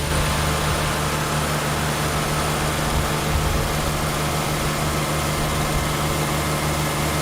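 A compact tractor's engine running steadily at a constant speed.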